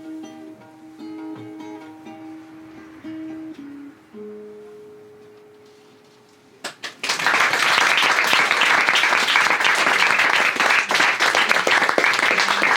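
Closing plucked notes on an acoustic stringed instrument, the last note ringing and fading away. About six and a half seconds in, a few claps start and an audience breaks into loud applause.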